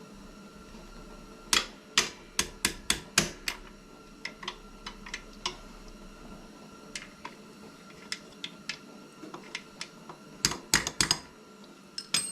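A quick run of sharp clicks and taps about a second and a half in, then scattered lighter clicks and another cluster near the end: metal tools and parts being handled.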